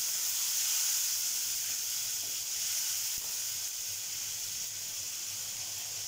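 Onion, garlic and tomato masala paste sizzling in hot oil in a kadhai: a steady hiss that eases slightly after the first few seconds.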